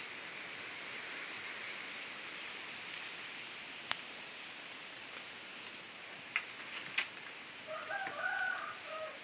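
A rooster crows once near the end, a wavering call of about a second and a half, over a steady background hiss. A few sharp clicks come before it.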